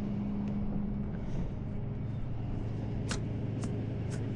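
Tow truck engine idling with a steady low hum, and three sharp metallic clicks about half a second apart near the end.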